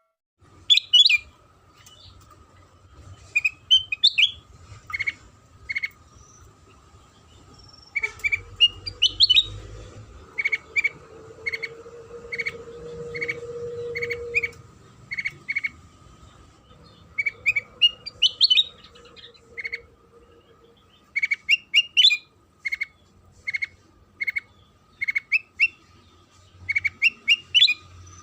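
A kutilang sutra songbird singing: a run of short, sharp chirps at about two a second, broken every few seconds by quick rising trilled phrases. A faint steady hum lies underneath.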